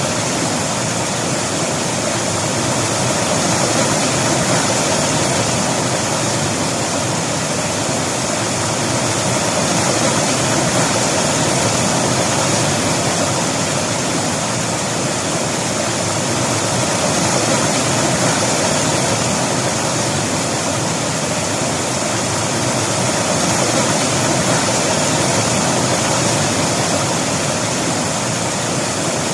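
River water flowing, a steady loud rush with no breaks.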